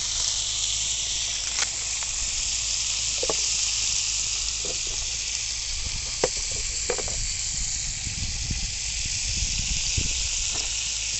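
Food sizzling in hot oil in a pan: a steady hiss with a few sharp pops and crackles.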